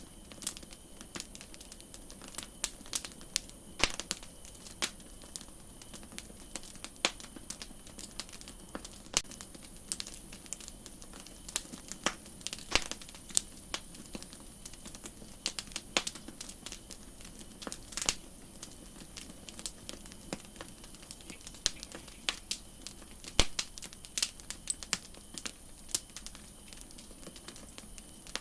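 Campfire crackling: irregular sharp pops and snaps of burning wood over a steady high hiss, which grows louder for about twelve seconds in the middle.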